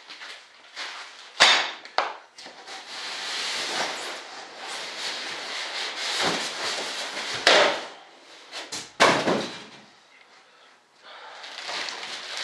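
A boxed table saw and its packaging being handled while unpacked: sharp knocks about a second and a half in and again just after, a few seconds of rough scraping and rustling, then two more knocks.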